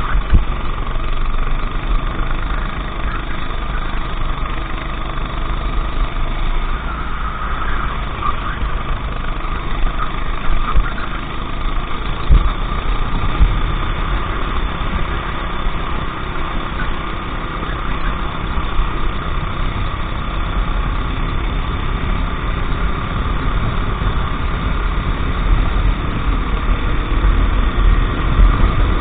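A racing kart engine running continuously on track, with a heavy low rumble under it.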